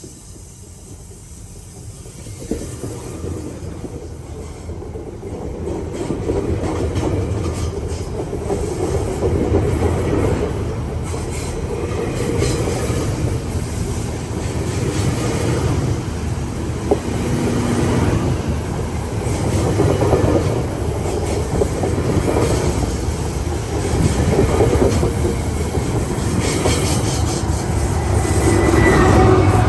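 GO Transit commuter train passing on the Barrie Line: the rumble builds over the first few seconds as it approaches, then the train runs by steadily.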